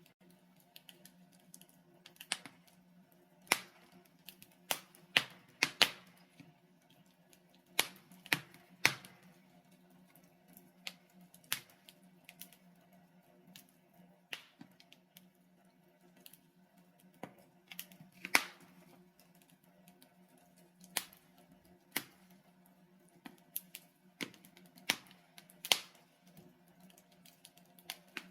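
Logs burning in a fireplace, crackling with irregular sharp pops and snaps over a faint steady low hum.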